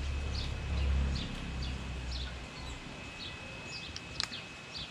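Birds chirping outdoors: short falling chirps repeating several times a second, over a steady thin high tone. A low rumble runs through the first half, and there is one sharp click near the end.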